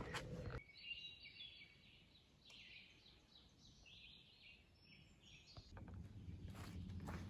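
Faint birdsong, scattered high chirps over near silence, with footsteps on the trail at the very start and again from near the end.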